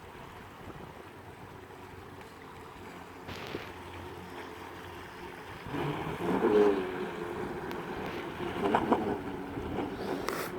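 Wind on the microphone over open water, turning louder and more uneven from about six seconds in.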